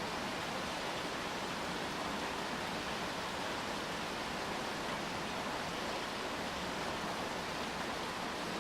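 Steady rain falling, an even hiss with no single drops, gusts or other events standing out.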